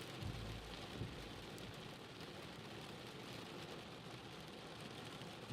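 Rain falling steadily, a faint even hiss.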